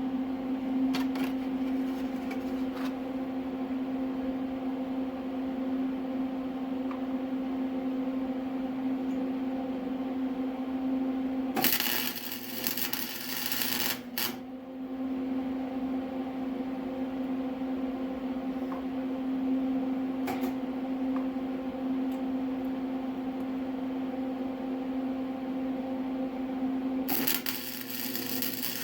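Steady hum of a welding machine, broken twice by a couple of seconds of loud arc noise: welds being laid on a motorcycle's exhaust pipe flange. The first comes about halfway through, the second near the end. Faint clicks and clinks are heard between.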